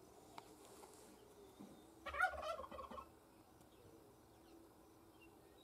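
A bird's call about two seconds in, a quick run of rapid pulsed notes lasting about a second, over faint steady background sound.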